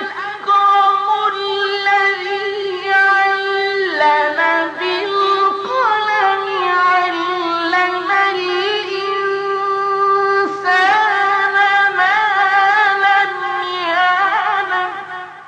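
A male Quran reciter's solo voice chanting in the ornamented mujawwad style: long melismatic phrases held on a high note, with winding turns of pitch, breaking twice for breath and fading out at the very end.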